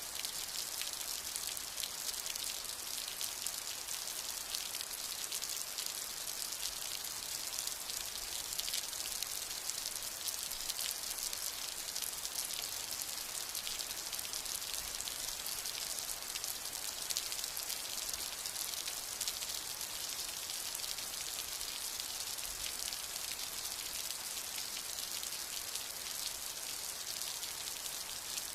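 Steady rain: a dense, even patter of drops, hissing and bright, with no thunder.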